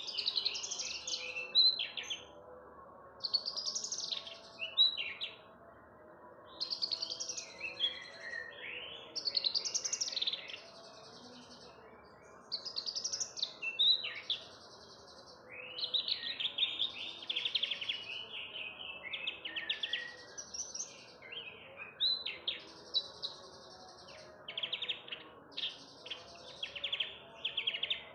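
Horsfield's bush lark (branjangan) singing: a long run of varied high chirping and trilling phrases, each lasting one to two seconds with short pauses between, over a faint steady background hum.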